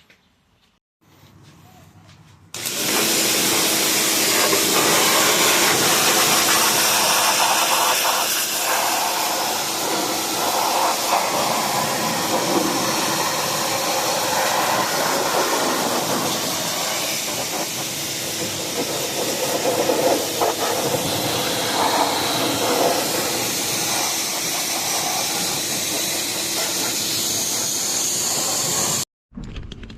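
Pressure washer spraying hard, a loud steady hiss that starts suddenly a couple of seconds in and cuts off abruptly near the end.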